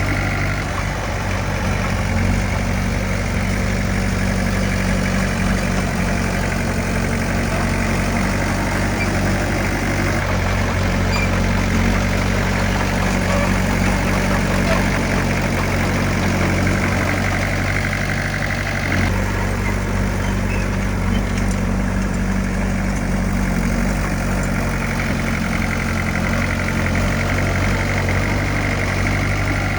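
Heavy earthmoving machine's diesel engine running steadily, its note shifting slightly about two-thirds of the way through.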